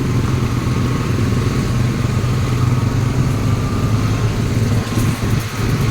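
Motorcycle engine running steadily while riding, with a constant hum and road and wind noise.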